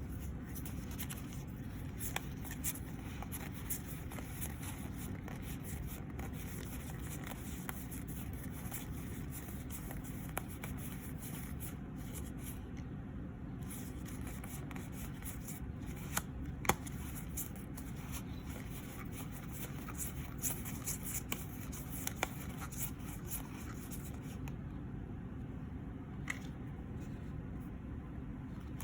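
Yu-Gi-Oh trading cards being handled and flipped through: light, scattered sliding and clicking of card stock, with a few sharper clicks, over a steady low room hum.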